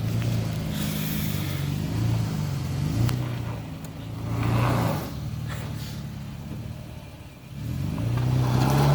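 Toyota Tacoma pickup's engine revving up and down in low-speed surges as it crawls over a trail obstacle, swelling louder twice, in the middle and near the end.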